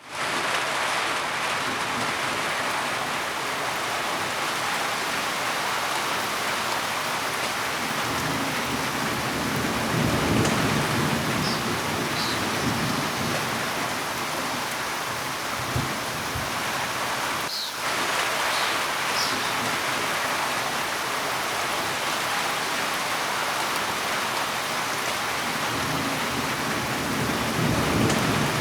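Steady heavy rain, with low rolling thunder rumbling twice: around eight seconds in and again near the end.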